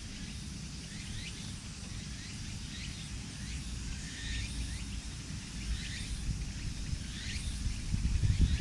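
Small birds chirping over and over in short quick notes, over a low steady rumble that grows louder near the end.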